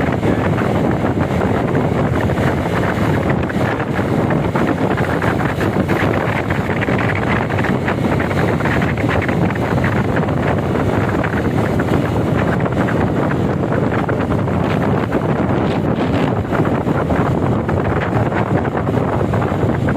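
Steady wind noise buffeting the microphone on a moving motorcycle, with the road and engine noise of the ride underneath.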